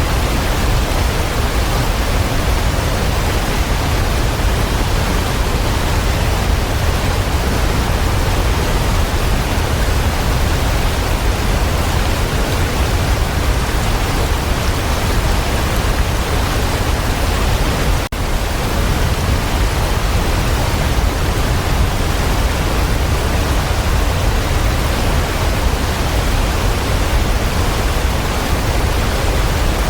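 Waterfall rushing: a loud, steady wash of falling water with no change, broken only by a momentary dip in level about eighteen seconds in.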